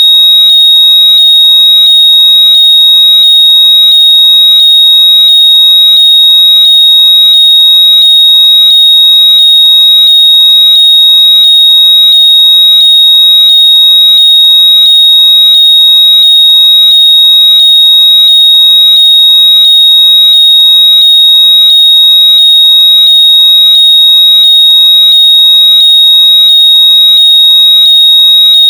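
Very loud, steady, high-pitched electronic tone, with faint rising chirps repeating about twice a second underneath. It is a locator noise meant to be played through lost Bluetooth earbuds so they can be heard and found.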